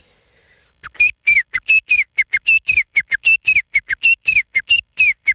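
A man imitating a bird call by whistling: a rapid run of short, clear whistled notes, about five a second, starting about a second in. The notes alternate slightly higher and lower, and each one slurs downward.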